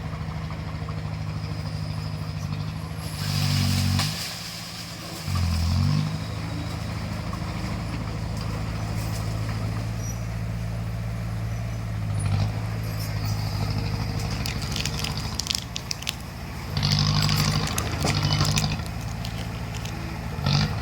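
Bulldozer's diesel engine running steadily and surging louder several times, with scattered metallic clanks in between.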